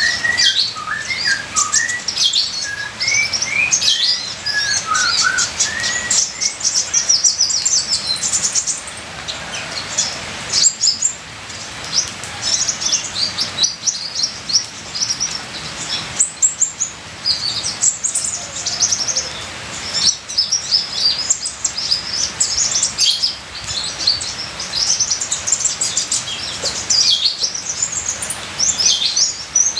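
Kolibri ninja (a sunbird) singing a fast, dense run of high chirps and trills, with a lower, slower string of notes in the first few seconds, over a steady trickle of water.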